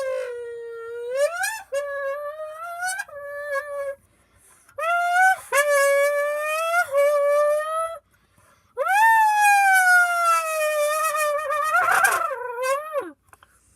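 A child imitating a Lamborghini engine by voicing into a squeezed can: three long revving sounds, each sliding up and down in pitch, with short pauses between them.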